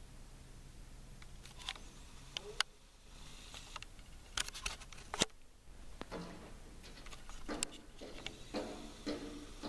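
A bird striking and pecking at a window pane: irregular sharp taps on the glass, a few in quick succession about four to five seconds in.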